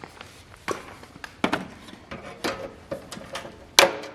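Scattered clicks and knocks of tools and small parts being handled and moved about while searching for a dropped part, with one sharp knock near the end.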